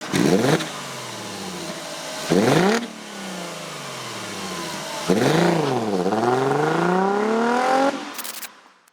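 A vehicle engine revving and accelerating. Its pitch climbs sharply twice in the first three seconds, then dips and rises in one long sweep over the last few seconds before it fades out.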